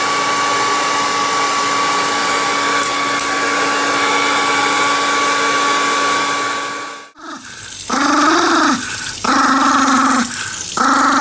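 Blow dryer running steadily, then cut off; after it a dog gives three drawn-out whining howls, each about a second long, rising and falling in pitch.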